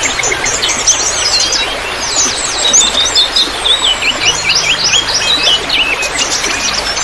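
Many small birds chirping and trilling rapidly and overlapping, over a steady trickle of water.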